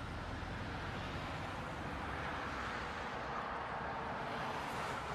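Steady road noise of a moving car: a low engine hum under a broad rush of tyre and wind noise.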